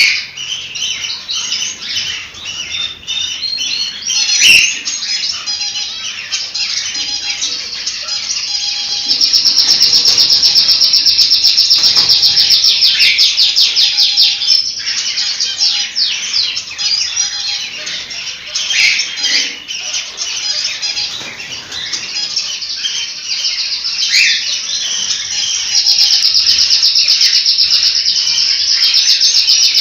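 Several cockatiels chirping and whistling, with stretches of fast, rattling repeated calls in the middle and near the end, and a sharp click about four seconds in.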